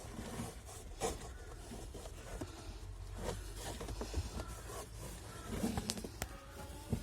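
Irregular scrapes, rustles and light clicks of hands cleaning dirt out of a car's filter housing, with a few sharper knocks about a second in and again near the end.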